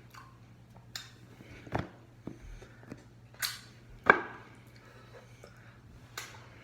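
Eating sounds from a Dairy Queen Blizzard: about six short clicks and taps, the loudest about four seconds in, over a faint steady hum.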